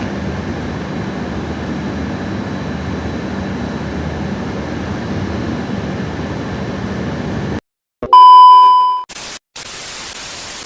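A steady noisy hiss that cuts off suddenly about seven and a half seconds in. Then comes a loud, steady electronic beep about a second long that fades away, followed by a stretch of even hiss like static.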